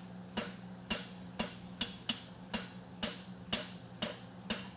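Blacksmith's hammer striking a hot steel horseshoe branch on the anvil in an even rhythm, about two blows a second, each with a short ring, drawing out the branch of a forged front suspensory shoe.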